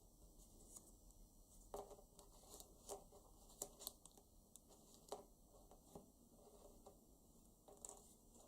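Faint paper rustling and crinkling, a banknote being handled and creased by hand, in a scatter of short crackles and ticks, most of them between about two and five seconds in and a few more near the end.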